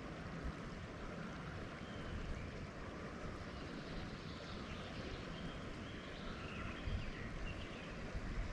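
River water flowing, with gusty wind buffeting the microphone.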